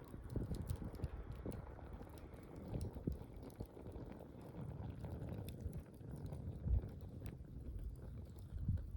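Wood campfire crackling and popping irregularly over a low, uneven rumble.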